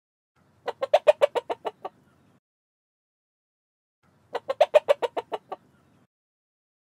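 An animal call, given twice: each a rapid run of about nine short pulsed notes lasting just over a second, the two runs about three and a half seconds apart.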